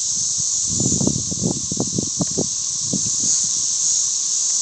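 Chorus of periodical cicadas: a steady, high-pitched shrill hiss. Irregular low crackles and knocks are heard over it during the first three seconds.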